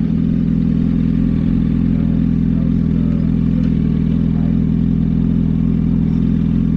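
Yamaha R1 sportbike engine running at a steady cruise, holding constant revs with no shifts or throttle changes.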